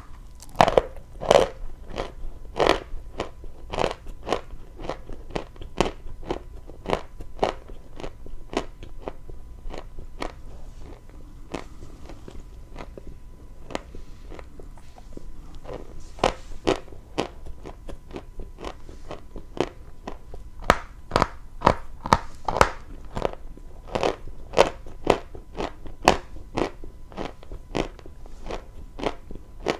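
Close-miked crunching of dry chalk being bitten and chewed: a steady run of sharp crunches about twice a second, quieter through the middle and louder again in the last half.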